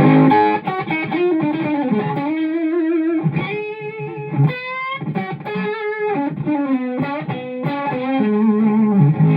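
Electric guitar played through a pedalboard with the fuzz on and a Super Sweet boost, a single-note lead line with an upward string bend about halfway through.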